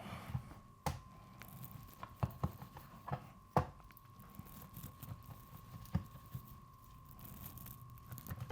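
Knife working on a raw chicken leg on a cutting board: a few scattered sharp taps and quiet handling sounds as the meat is cut from the bone, over a faint steady hum.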